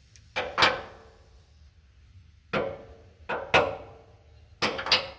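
Hammer blows on metal, about seven strikes in groups of two or three, each with a short metallic ring: knocking a semi truck's cab shock into line with its mount.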